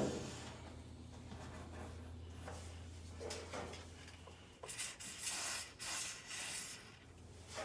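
Graphite dry lubricant being puffed onto a dryer's drum support wheels: a knock at the start, light rubbing and handling, then three short hissing puffs in the second half.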